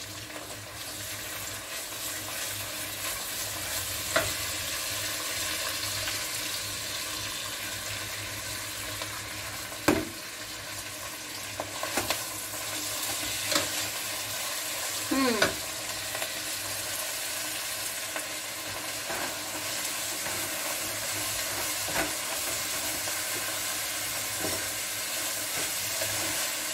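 Chopped kale and onions sizzling as they fry in a stainless steel pot, a steady hiss, while a wooden spoon stirs them. The spoon knocks against the pot now and then.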